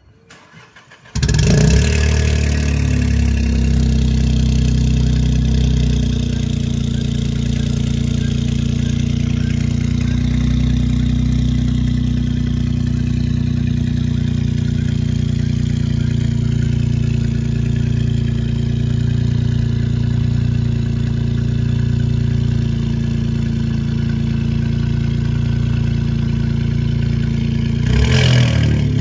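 Stage 4-tuned VW up! TSI's turbocharged three-cylinder engine cold-started: a brief crank, then it catches about a second in. It idles loud and steady with the exhaust running out through the open diffuser cutout straight off the turbo downpipe, and gets louder near the end.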